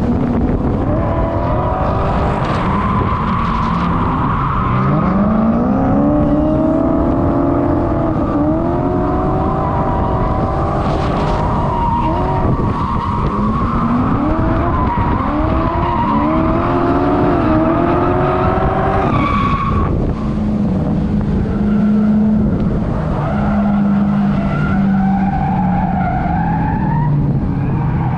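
Drift car's engine revving up again and again in rising sweeps, with tyre squeal and skidding as the car slides. About two-thirds of the way through the revving stops, and the engine runs at a steadier pitch.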